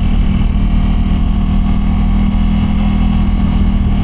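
Motorcycle engine running at a steady, unchanging speed while riding, with a constant low hum.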